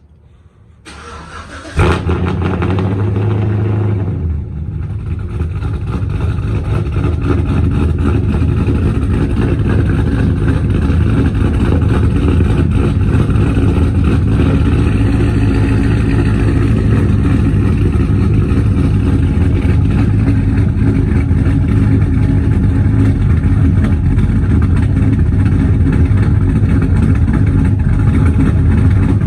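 Pickup truck engine cold-started: it catches with a sudden loud burst about two seconds in, dips briefly a couple of seconds later, then settles into a steady idle.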